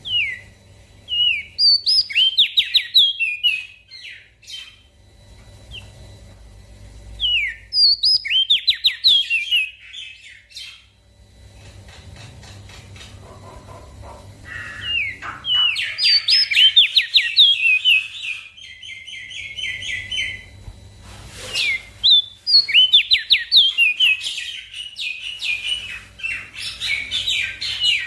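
A small songbird singing bursts of fast, sharp chirping notes, each run lasting a few seconds with short pauses between, the longest near the middle, over a faint low hum.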